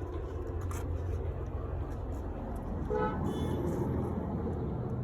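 A steady low vehicle engine rumble with a short car-horn toot about three seconds in.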